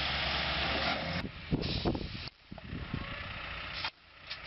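A heavy vehicle's engine running under a steady rushing noise. About a second in, the sound cuts abruptly to quieter stretches with scattered knocks, and it drops off suddenly twice more.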